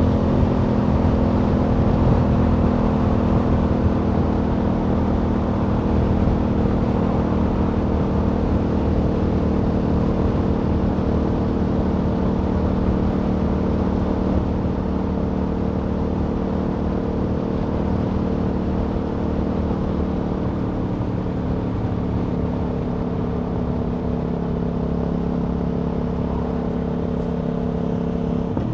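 Aprilia Tuono V4 motorcycle's V4 engine running at steady cruising revs. The pitch sags slightly through the second half.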